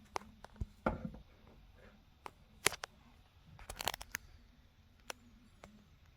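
Scattered clicks and knocks with a brief rustle about a second in, from packaging and statue parts being handled during an unboxing. The sharpest knock comes near the middle, followed by a quick cluster of clicks.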